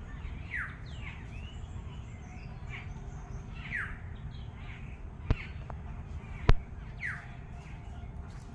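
Birds calling in a garden: one bird repeats a short, falling call about every three seconds, with fainter chirps between. Two sharp clicks come a little past halfway, the second the loudest sound, over a steady low rumble.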